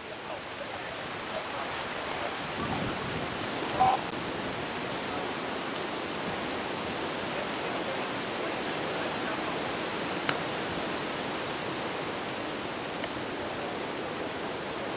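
Steady rushing noise of a storm's wind and rain, building over the first couple of seconds and then holding level, with a short sharp sound about four seconds in.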